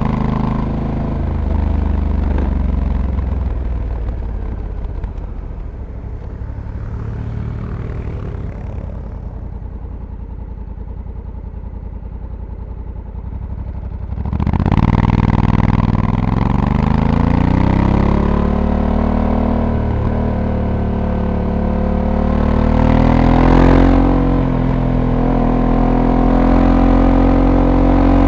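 Honda Africa Twin's 1084 cc parallel-twin engine heard from on board. For the first half it runs quietly off the throttle, with the pitch falling. About halfway through the throttle opens sharply and it accelerates with rising pitch. Near the end the pitch drops briefly as the dual-clutch gearbox shifts up, then keeps rising.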